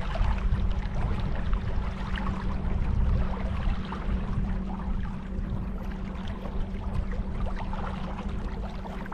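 A steady motor hum holding one pitch, over a low rumble and wash of water and wind noise on the microphone.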